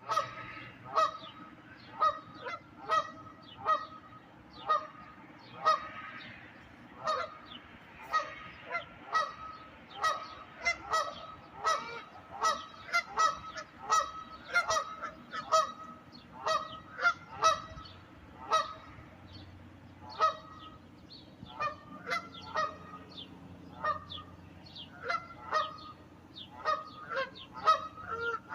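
A group of large water birds honking back and forth, short nasal calls coming about once or twice a second and sometimes overlapping.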